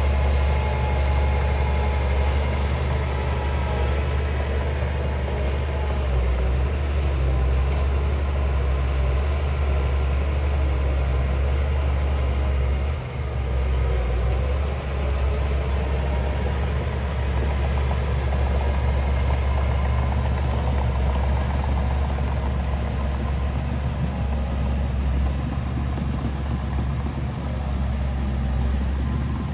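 Heavy diesel engine of earthmoving machinery running steadily with a deep drone, dipping briefly about thirteen seconds in.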